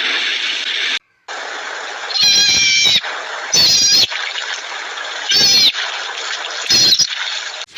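An animal giving four short meow-like calls a second or so apart, each falling slightly in pitch at its end, over a steady background hiss.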